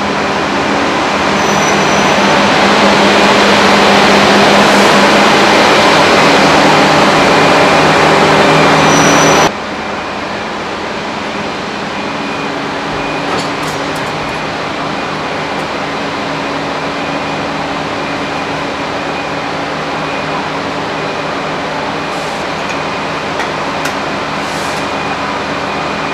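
Steady running noise of a passenger train at a station platform, loud and even with a low hum. It drops abruptly about nine seconds in to a quieter steady hum with a faint high whine, and a few light clicks come later.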